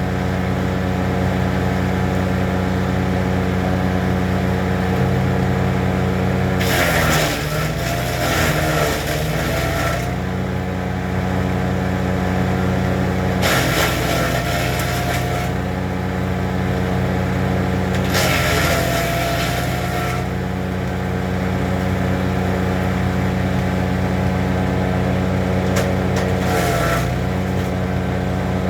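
Honda-engined wood chipper running steadily, with three longer bursts of chipping noise and a brief one near the end as wood is fed in; the engine note sags under the load each time.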